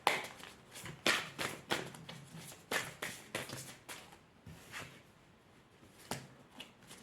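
A tarot deck being shuffled and handled by hand: a series of irregular soft swishes and taps of the cards, sparser for a couple of seconds in the middle.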